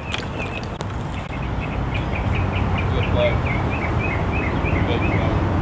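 Small birds chirping, a short repeated note about three times a second starting a second or two in, over a steady low rumble.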